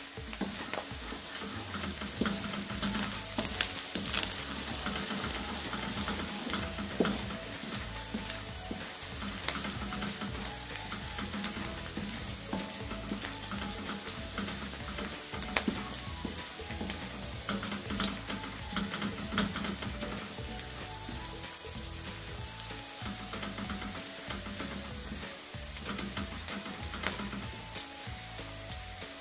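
Minced shallots, garlic and chilli sizzling in a little oil in a stainless steel wok, stirred with a wooden spatula that scrapes and taps against the metal.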